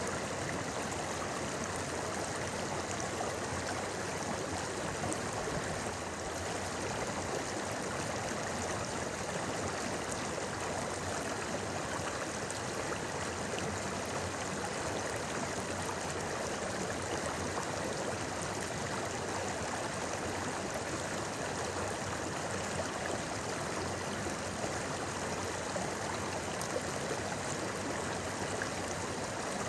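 Clear river water flowing and babbling over rocks in a steady, unbroken rush.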